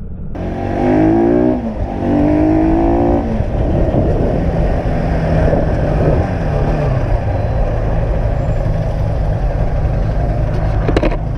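Motorcycle engine accelerating hard, its pitch climbing twice through a gear change, then running steadily with road and wind noise, its pitch dropping around seven seconds in as it slows.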